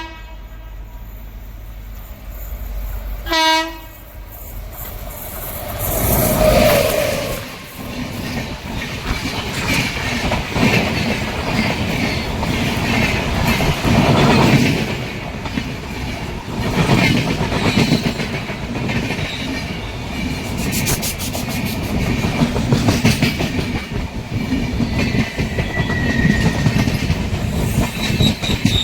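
WAP-7 electric locomotive horn sounding two short blasts, then a long passenger train passing close by, its coaches rolling and clattering over the rail joints. Thin wheel squeal rises near the end.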